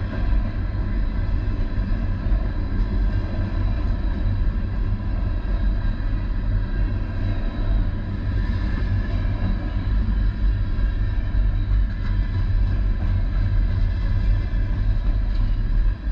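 Train rumbling steadily past, a continuous deep low rumble with a faint steady whine over it.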